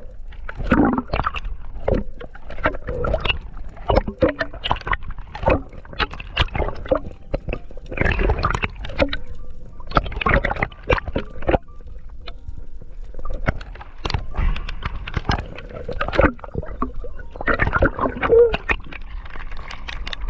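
Sea water sloshing and gurgling close to the microphone, with many irregular clicks and knocks and louder splashy stretches about eight, ten and seventeen seconds in.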